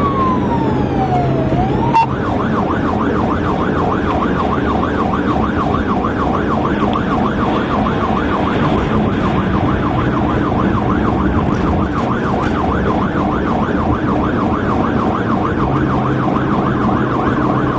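Police car siren sounding during a pursuit, over steady vehicle and road noise. It falls in a slow wail at the start, then about two seconds in switches to a fast, even yelp that carries on steadily.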